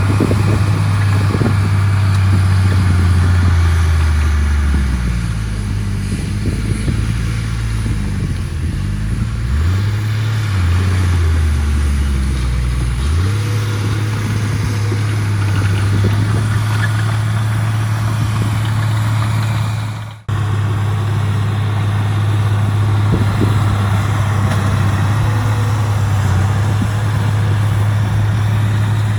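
Heavy diesel engine of earthmoving machinery running steadily, its pitch sagging and recovering a few times in the first half as the load or throttle changes, then holding steady. The sound breaks off abruptly for a moment about twenty seconds in, then resumes.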